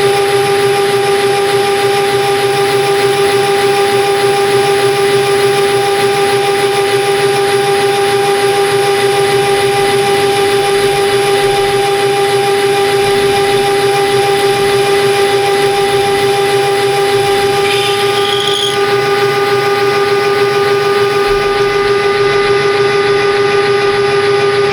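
Metal lathe running at a constant speed with a steady high whine, as it turns 4140 steel bar. A brief higher squeal comes through about three quarters of the way in.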